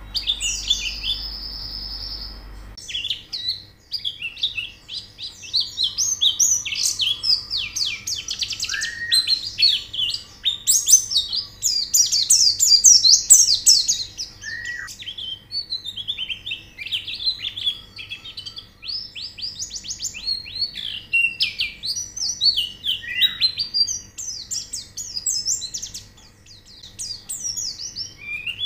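White-eyes singing a rapid, unbroken stream of high chirps and twittering trills. A steady buzzy high note in the first few seconds stops abruptly.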